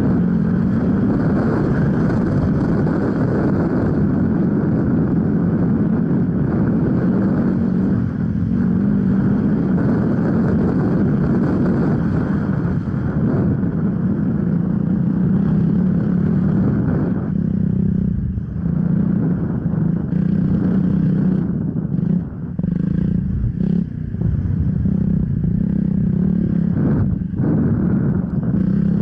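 Off-road motorcycle engine running at a steady pitch under throttle, its note dipping briefly a few times in the second half as the throttle is eased and picked up again.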